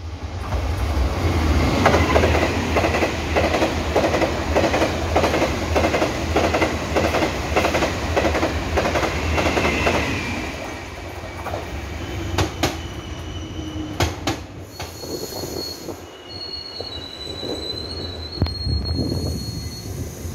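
Taiwan Railway express train running through the station at speed, its wheels clacking rhythmically over the rail joints; the clacking fades about ten seconds in. A commuter electric train follows, giving a few sharp clicks and a high thin squeal.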